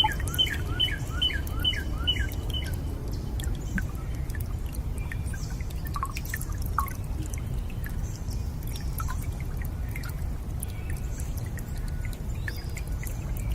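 Water drops falling and dripping, some with a short hollow ping, over a steady low rush of water. A bird repeats a quick falling chirp about twice a second for the first couple of seconds.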